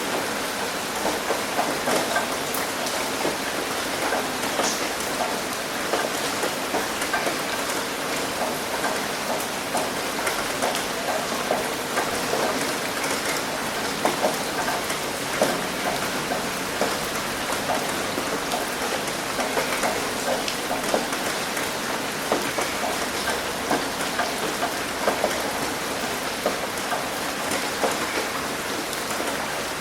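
Steady rain hitting a roof, a constant wash of hiss with many sharp individual drop ticks scattered irregularly through it.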